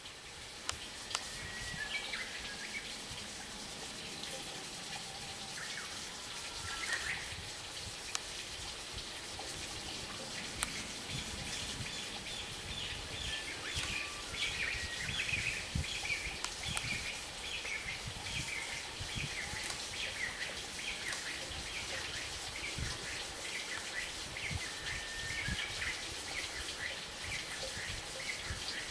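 Small birds chirping and twittering over a steady background of outdoor noise, with a few short whistled calls early on and a busier run of twittering around the middle.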